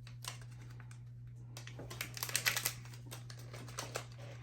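Mystery pin packaging being handled and opened by hand: quick clusters of small clicks and rustles, busiest about two seconds in, over a steady low hum.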